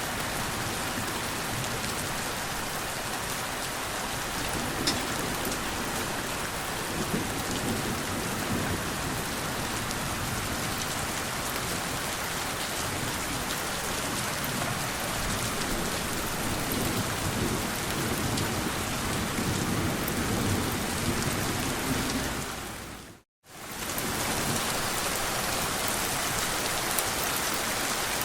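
Steady rain falling, with low rolling thunder rumbling through most of it. Near the end the sound fades out to silence for a moment and comes straight back.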